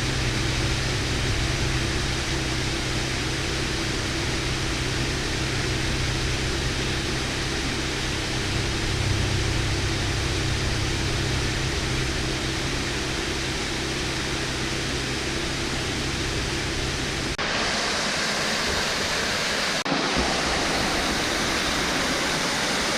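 Waterfall on the West Kill, a steady rush of falling water. Its sound changes abruptly about 17 seconds in and again near 20 seconds, with less deep rumble after the first change.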